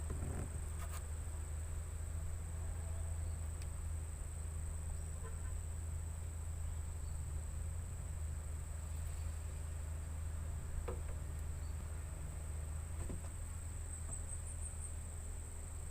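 Insects droning with one steady high-pitched tone, over a low steady rumble, with a few faint clicks.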